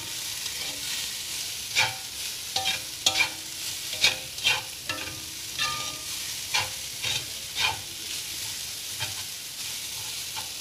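Yellow noodles frying in a spoonful of oil in a non-stick wok: a steady sizzle, with irregular scraping knocks as the noodles are stirred and turned over.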